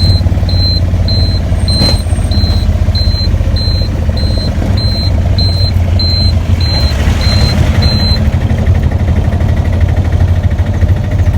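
Auto-rickshaw engine running with a steady low drone, while a high electronic beep repeats about twice a second and stops about eight seconds in.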